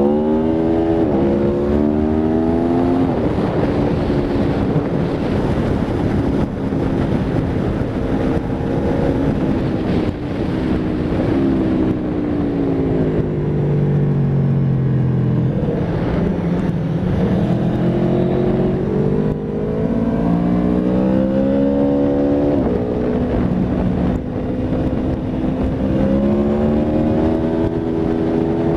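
Aprilia Tuono V4 RR's V4 engine at full throttle on track, the revs climbing and dropping sharply at each upshift near the start. About halfway through, the revs fall through downshifts under braking, then climb again through several upshifts, with steady wind rush underneath.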